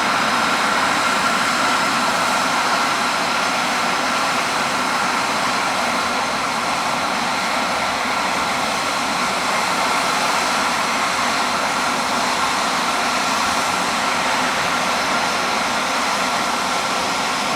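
Cessna Citation 560 XL business jet's twin turbofan engines running steadily, a constant high whine over a broad rushing noise, easing slightly near the end.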